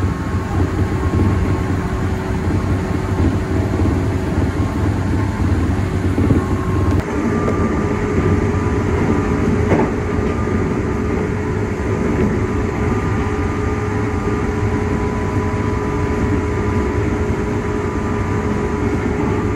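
Meitetsu electric train running, heard from the front of the car behind the driver's cab: a steady rumble of wheels on rail with a steady motor whine over it. The sound shifts slightly about seven seconds in, and there is one short knock a little after that.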